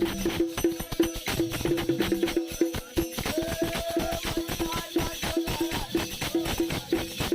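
Bundeli Rai folk dance music: fast, dense drumming with jingling, shaken percussion and a steady pulsing beat, with a faint melodic line over it near the middle.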